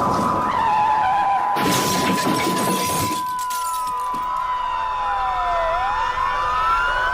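Siren sound over a steady high electronic tone. A brief crashing, static-like burst about a second and a half in, then a slow wailing siren that falls in pitch for a couple of seconds and rises again.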